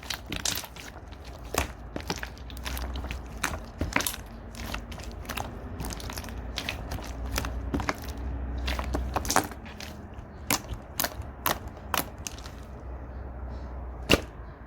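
Red glitter slime being squished and folded by hand, giving irregular sharp clicks and pops.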